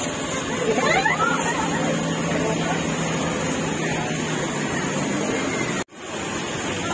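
Heavy rain falling steadily as a dense hiss, with a faint voice about a second in. The sound cuts out for an instant near the end.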